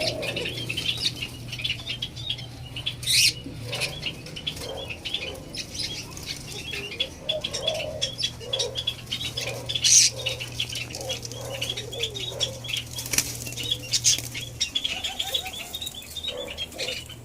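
White-eared brown doves fluttering their wings in short bursts, amid rapid high chirping and a few sharp knocks. A steady low hum runs underneath and stops a few seconds before the end.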